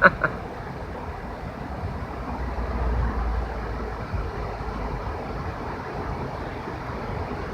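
Steady low outdoor background rumble with no distinct events, swelling briefly about three seconds in.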